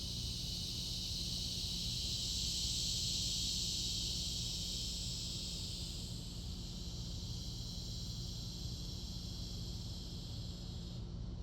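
Steady high-pitched insect drone that swells over the first few seconds, eases off about halfway, and cuts off suddenly near the end, over a low steady rumble.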